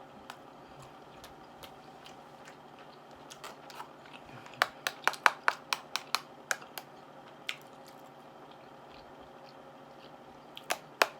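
Close-miked chewing with sharp, wet mouth clicks and smacks. A quick run of them starts about four and a half seconds in, a few a second for a couple of seconds, and another cluster comes near the end.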